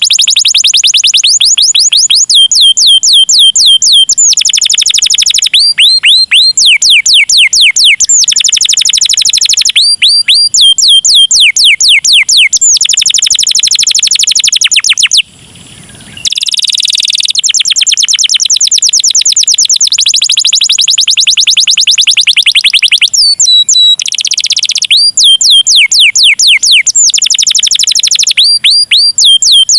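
Canary singing loudly, a long string of fast rolling trills, each a rapid run of repeated notes that shifts in pitch from phrase to phrase, with a short break about halfway through.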